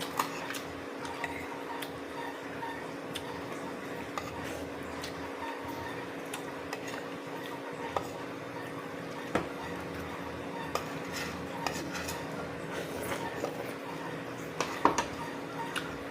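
Eating utensils clinking and scraping against dishware during a meal: scattered light clicks, with a few louder ones close together near the end, over a steady low hum.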